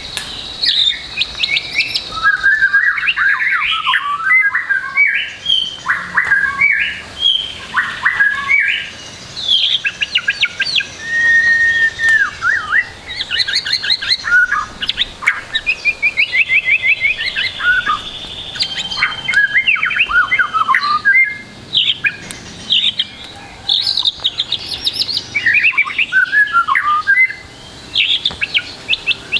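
White-rumped shama singing a long, varied song of quick trills, rising and falling whistles and chattering phrases in rapid succession with brief pauses, full of imitated notes of other birds.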